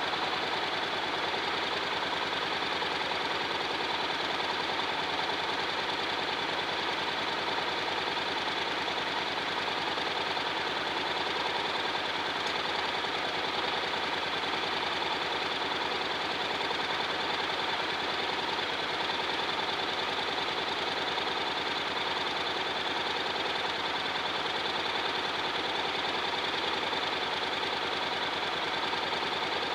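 Honda X-ADV's 745 cc parallel-twin engine running steadily, with no revving up or down.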